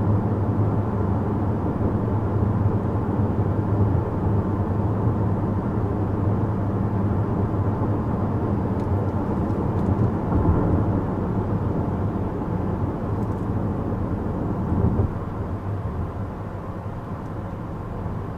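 Cabin noise of a 2014 Chevrolet Impala with the 2.5-litre four-cylinder engine under way: a steady low hum of engine and tyre rumble, easing a little about fifteen seconds in.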